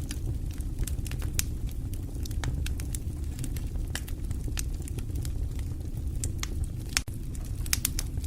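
Fire crackling: a steady low rumble with irregular sharp pops and snaps.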